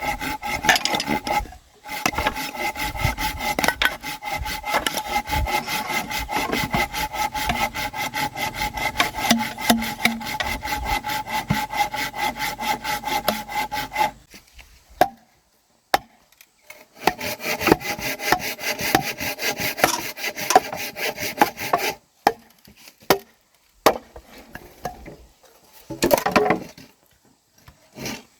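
Hand saw cutting wood in fast, even strokes for about fourteen seconds, then after a short pause another run of sawing strokes, followed by a few scattered knocks near the end.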